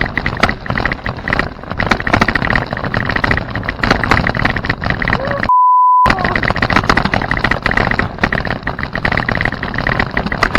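Bicycle ridden fast over a rough, branch-strewn woodland trail: constant rattling and clattering with rapid clicks. About halfway through, everything cuts out for a half-second censor bleep.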